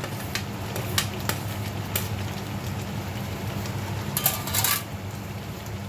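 Kitchen utensils clinking and knocking against a cooking pot: a few separate sharp clicks in the first two seconds, then a quick run of clinks a little after four seconds, over a steady low hum.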